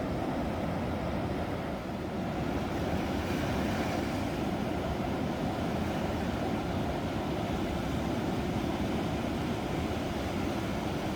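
Ocean waves: a steady, low roar of surf with no clearly separate crashes.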